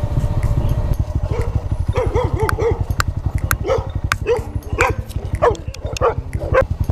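A dog barking repeatedly, beginning about two seconds in, over a steady low rumble.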